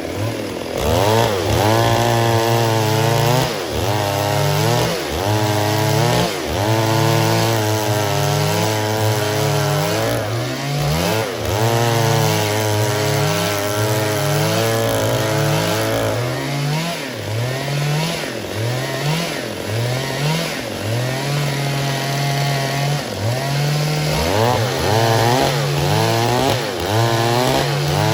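Stihl MS 382 two-stroke chainsaw running at high speed and cutting wood, its engine pitch dipping under load and recovering every second or so.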